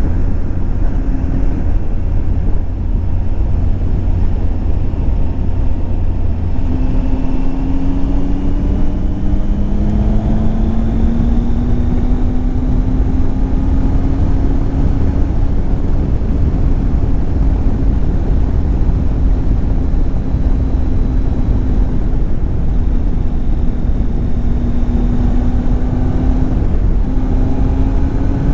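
Triumph Tiger 800 XCX's three-cylinder engine running under way, with a heavy rush of wind on the microphone. The engine note steps up and climbs slowly between about seven and twelve seconds in as the bike gathers speed, then holds fairly steady.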